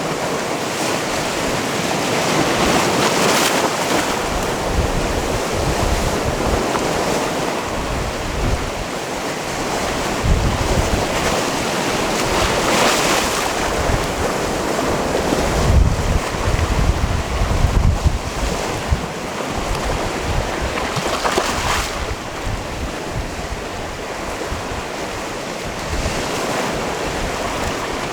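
Sea waves washing in on a rocky shore, a steady surf with a wave breaking and surging up every several seconds. A gusty low rumble of wind on the microphone runs through the middle.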